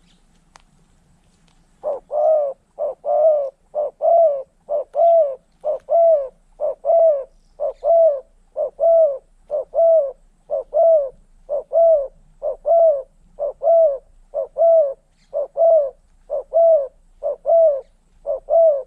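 Spotted dove cooing loudly in a steady repeated pattern of short-then-longer coo notes, about one phrase a second, beginning about two seconds in.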